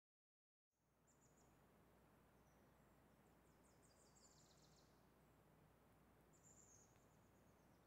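Near silence: a faint outdoor hiss in which a bird sings faintly in a few short phrases, with a falling trill about three seconds in and another phrase near the end.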